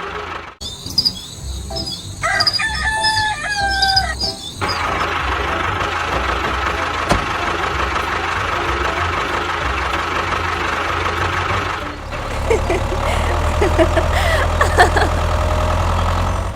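A rooster crowing, with short pitched calls over a steady background hum.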